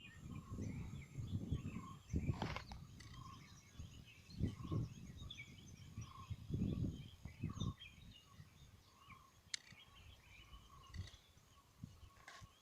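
Birds calling, with many short chirps and one short note repeated about once a second, over irregular low gusts of wind buffeting the microphone.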